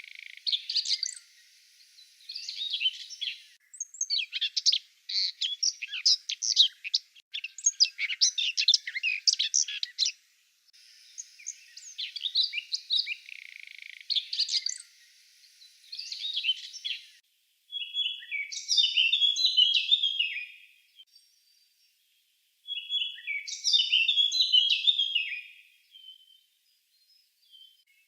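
Songbirds of a May woodland singing. For the first half there is dense, fast warbling in sections that cut in and out abruptly. After that a single bird repeats a short, descending song phrase about every five seconds.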